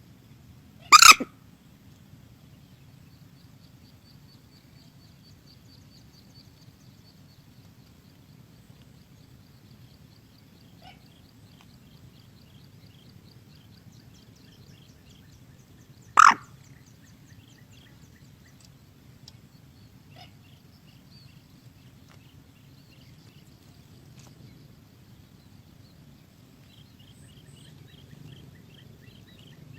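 Two loud, short, harsh moorhen calls about fifteen seconds apart. Faint rapid high chirping runs between them.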